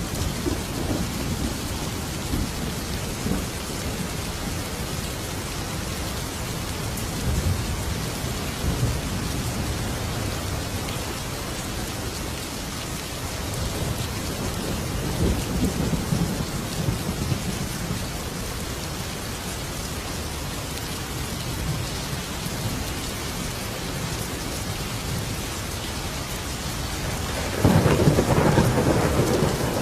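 Thunderstorm: steady heavy rain with rolling thunder rumbling low underneath, swelling a couple of times and growing louder in a closer thunderclap near the end.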